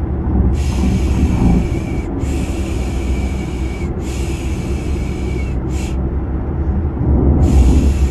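Steady low car rumble, engine and road noise, with a repeated 'shhh' shushing hiss laid over it. Each shush lasts about a second and a half, with short breaks between them and a longer break near the end.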